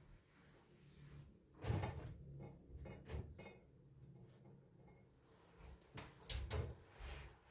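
A series of knocks and clatters from household objects being handled, two pairs of sharper ones about a second and a half in, around three seconds, and again after six seconds, over a faint steady hum.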